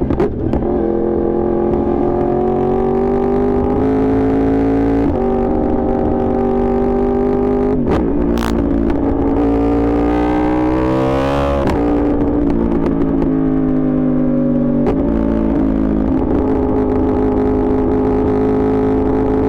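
Yamaha R1's inline-four engine under way, its pitch stepping as gears change in the first several seconds. Revs climb steeply to a peak about twelve seconds in, then fall away and settle to a steady cruise for the last few seconds.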